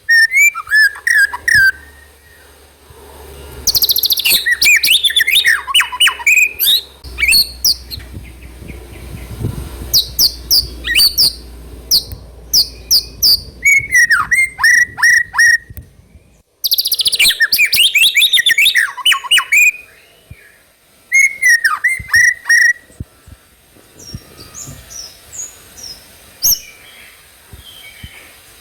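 White-rumped shama singing in bursts of rapid, varied whistled phrases, with short pauses between them.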